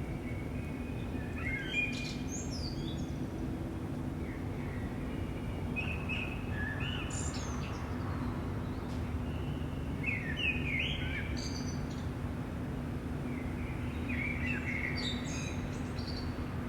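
Songbirds singing, short chirping phrases about every four seconds, over a steady low hum and rumble.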